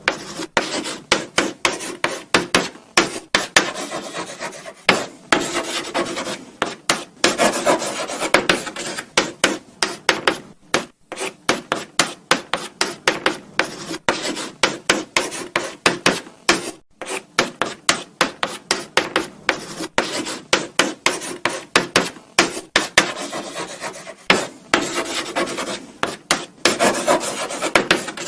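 Chalk writing on a blackboard: quick taps and short scraping strokes, several a second, with brief pauses between bursts of writing.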